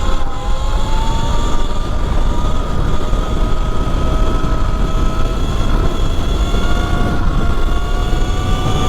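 E Ride Pro SS 3.0 electric dirt bike's motor whining, its pitch climbing slowly as the bike gathers speed. Heavy wind rumble on the helmet camera's microphone runs underneath.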